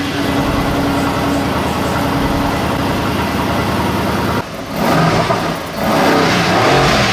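Mercedes-AMG GT R's 4.0-litre twin-turbo V8 running steadily, then revved up twice in the second half with a short dip between.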